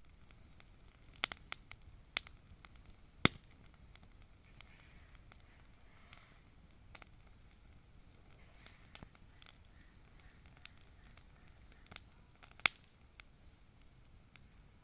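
Wood bonfire crackling, with scattered sharp pops at irregular intervals; the two loudest come a little after three seconds in and about two seconds before the end.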